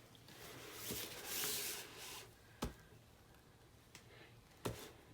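Handling noises as things are moved about on a work surface: a rustling scrape lasting about a second, then a few sharp knocks.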